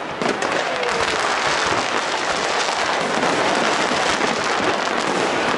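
Fireworks display: a dense, steady crackle of many small pops from bursting shells.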